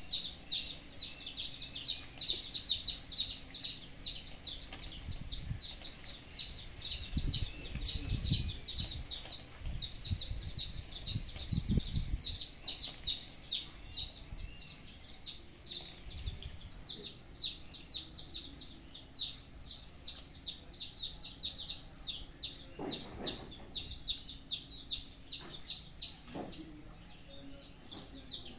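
A bird chirping over and over, several short high chirps a second without a break, with a few low thumps partway through.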